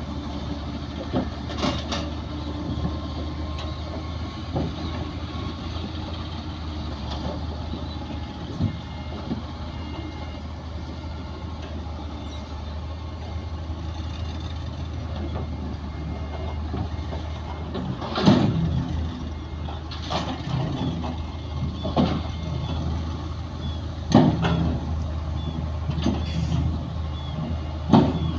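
Bulldozer's diesel engine running steadily at a low drone, with sharp metallic clanks, a few near the start and several in a row in the second half.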